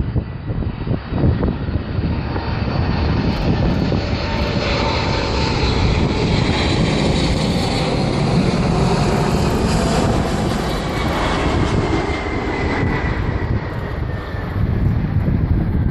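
Boeing 747-400 jet engines passing close while landing. A loud, continuous rush and whine builds to a peak about two-thirds of the way through, then fades, the whine falling in pitch as the airliner goes by.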